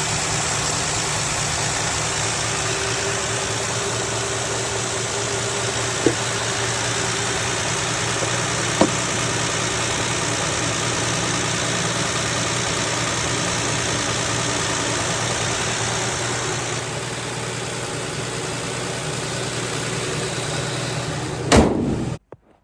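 Plymouth Belvedere engine idling steadily just after a cold start on a freezing morning, with two faint clicks about 6 and 9 seconds in. Near the end a sharp burst, then the sound cuts off abruptly.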